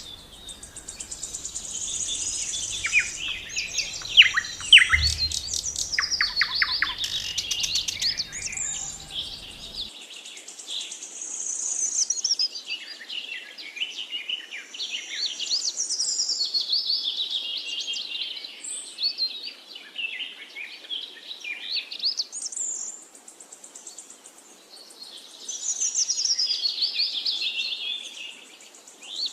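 Several songbirds singing and chirping at once: many short, quick, overlapping phrases, high-pitched, swelling and fading in waves.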